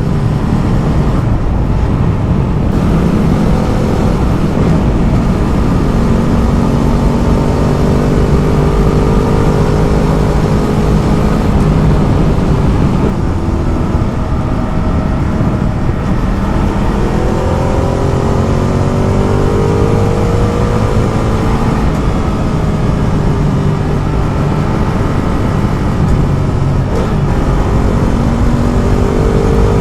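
Ducati Multistrada motorcycle engine running at road speed under steady wind and road noise, its note rising and falling several times as the rider changes speed.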